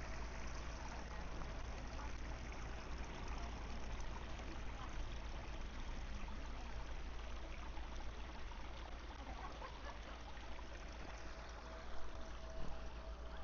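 Steady wind noise on an action-camera microphone, a constant rushing hiss with low rumble, with a faint steady hum under it.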